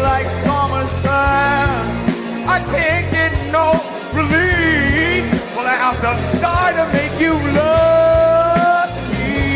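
Rock song: a sung vocal line of bending, gliding notes over the band, ending in one long held note.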